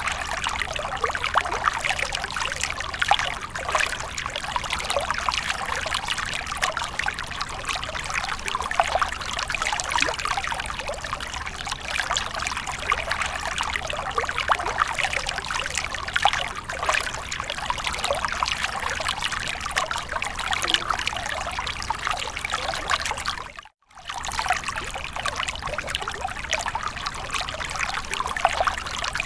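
Water running and splashing steadily, a dense patter of small splashes and trickles, cutting out for a split second about 24 seconds in.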